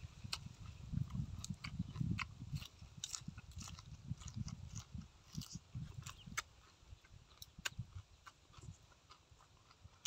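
A person chewing raw green vegetable stems close to the microphone: irregular crisp crunches and wet mouth clicks, over a low uneven rumble that eases off after about the middle.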